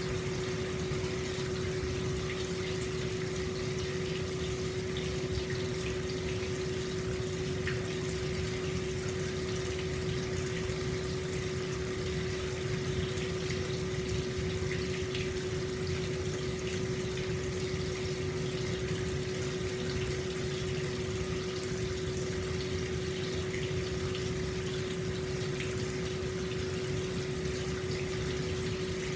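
Hot spring water pouring steadily into an open-air stone bath, an even, unbroken rush of water with a steady low hum beneath it.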